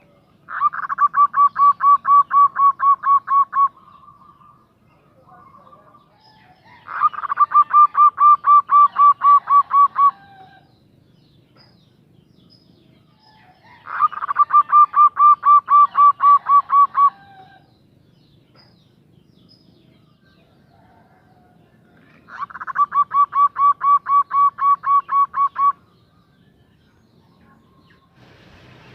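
Female zebra dove (perkutut) calling to a male: four bouts of rapid, evenly repeated notes, each bout about three seconds long at roughly four or five notes a second.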